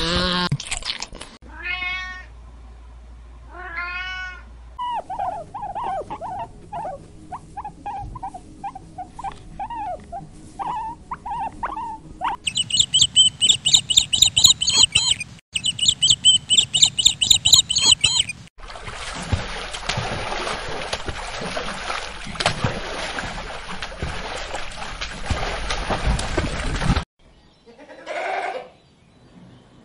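A run of short animal-call clips: a few rising pitched calls, then irregular chirping, then rapid high-pitched calls repeated several times a second, followed by several seconds of steady hiss-like noise and one more short call near the end.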